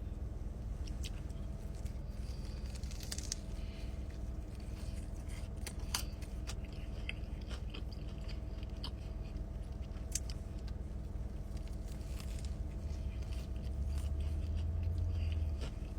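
A person biting and chewing food close to the microphone, with scattered sharp crunches over a steady low hum. A louder low rumble comes in near the end for about a second and a half.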